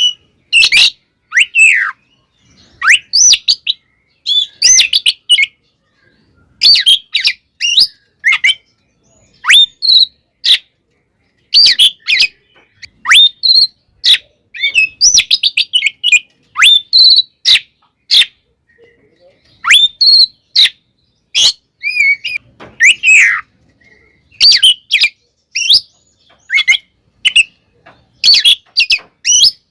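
Oriental magpie-robin (kacer) singing loudly in short, quick phrases of varied whistles and sharp chirps, with brief gaps between phrases. It is the bird's aggressive, fighting-style song.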